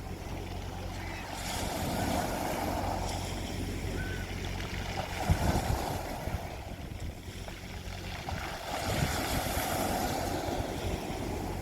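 Sea waves washing onto a beach, the rush of surf swelling and easing about three times. A steady low hum runs underneath, and wind buffets the microphone briefly about five seconds in.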